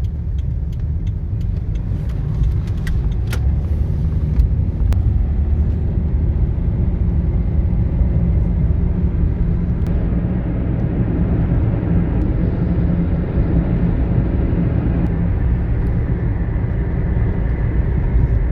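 Steady low rumble of cars running close by, with a few sharp clicks in the first few seconds.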